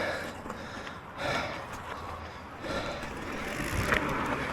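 Mountain bike rolling along a dirt trail with the rider breathing hard, a breath about every second or so.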